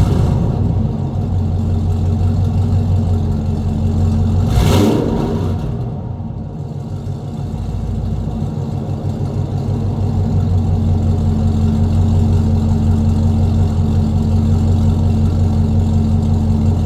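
2002 Camaro Z28's LS1 V8 running through long-tube headers and a true dual exhaust with an X-pipe, idling steadily. A brief rushing whoosh comes about five seconds in, and the sound drops a little for a couple of seconds before settling back to a steady idle.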